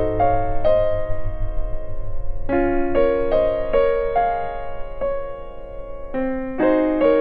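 Background music: a soft electric piano playing slow broken chords over a low bass.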